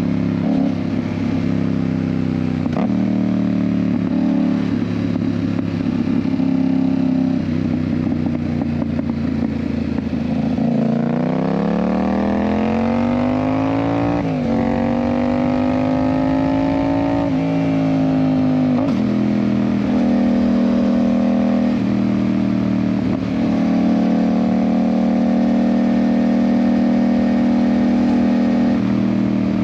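Yamaha MT-07's 689 cc parallel-twin engine, fitted with an aftermarket Ixil exhaust, running on the road. It holds a steady cruise, then about ten seconds in the revs dip and climb steeply through one gear, shift up, and climb again. After that it eases back to a steady cruise.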